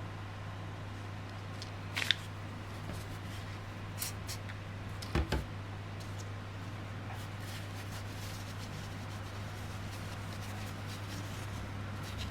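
A few small clicks and taps from handling the plastic earbud parts by hand during a glue repair, the loudest a quick double tap about five seconds in, over a steady low hum.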